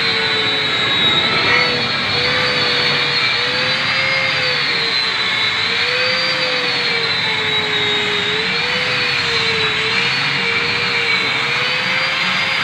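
High-speed electric polishing machine working stainless steel: a steady motor whine over a rough hiss, its pitch wavering slowly up and down as the load on the disc changes.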